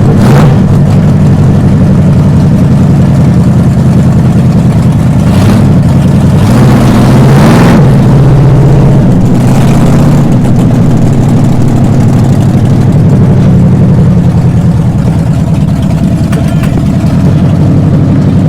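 Mega truck's big engine running loud, heard from inside the cab, its revs rising and falling in the middle. A few brief rushes of noise sound over it.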